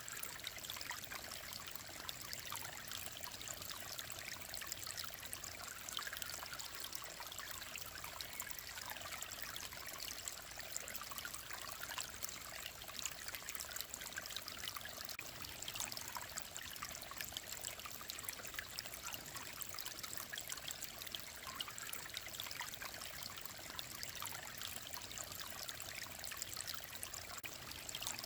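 Mountain stream running steadily, a continuous babbling trickle of clear water.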